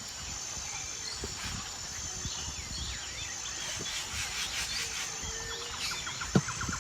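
Outdoor ambience: birds chirping over a steady high-pitched insect drone, with a low rumble underneath and a soft knock near the end.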